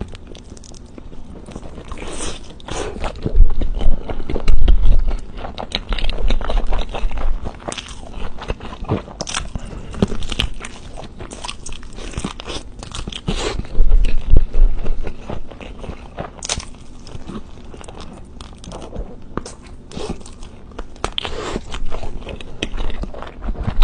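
Close-miked eating: a person biting into and chewing crunchy food, with irregular crisp crunches throughout. The loudest bites come about four seconds in and again about fourteen seconds in.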